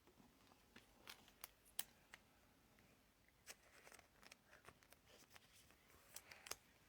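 Near silence broken by scattered faint clicks, taps and light rustles of trading cards being handled and set down, a few more of them close together near the end.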